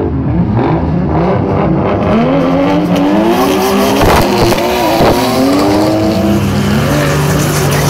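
A pack of drift cars revving and accelerating together, several engine notes rising and falling over one another. From about three seconds in, a hiss of tyre noise and squeal builds under the engines as the cars start sliding.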